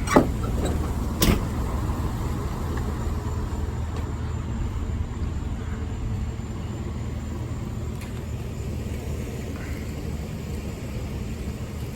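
A vehicle engine idling with a steady low rumble, with two sharp knocks in the first second and a half.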